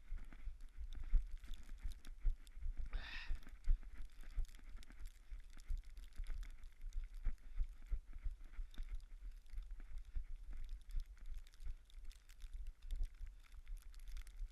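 Running footfalls on a wet, muddy, snowy trail: a quick, steady beat of soft thuds, with a brief hiss about three seconds in.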